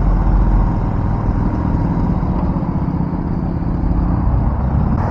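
Vehicle engine running steadily at cruising speed with road and wind noise, heard from the moving vehicle.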